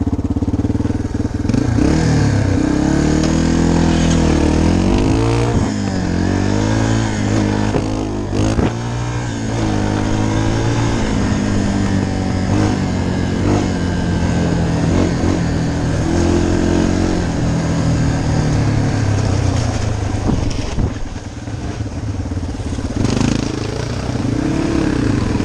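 Dirt bike engine being ridden, its pitch rising and falling repeatedly as the throttle is opened and closed, easing off briefly about four-fifths of the way through.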